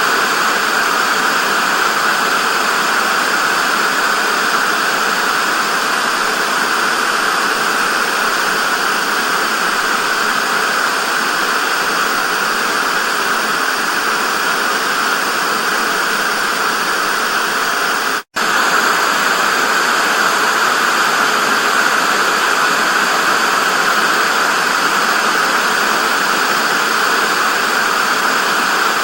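Steady hiss of analogue TV static, even and unchanging, brightest in the upper middle range. About two-thirds of the way through it drops out for a split second, then resumes.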